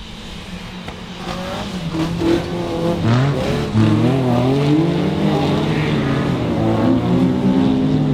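Autograss race cars racing on a dirt track, several engines running hard at once. The engine notes rise and fall as the cars accelerate and lift, and get louder about three seconds in as they come closer.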